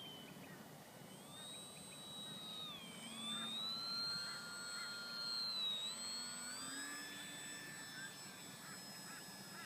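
Electric motor and propeller of a small RC foam plane whining in flight, its pitch dipping and rising several times as it flies about.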